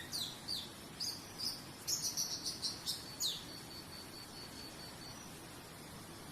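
A songbird singing one phrase of downward-sweeping whistles and a quick run of high notes, over a steady background hiss. A faint, evenly pulsed high chirping follows for a second or two after the song.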